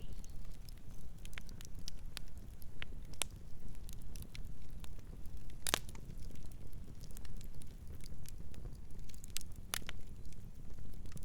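Campfire burning: a steady low rumble of flames with irregular sharp crackles and pops of burning wood, the loudest pops about six seconds in and near the end.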